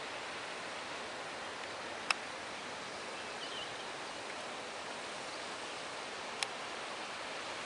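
Steady rushing outdoor noise, like wind or distant flowing water, with two sharp clicks, about two seconds in and about six seconds in, and a few faint high chirps between them.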